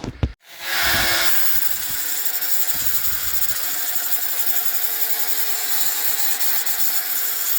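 Angle grinder grinding down a steel weld on a quad axle, running steadily with a loud grinding hiss.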